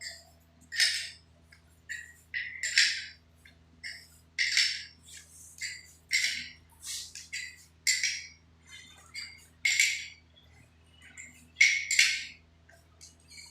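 A series of short rasping strokes, roughly one a second and somewhat irregular, like a hand tool scraping or sawing, over a faint steady hum.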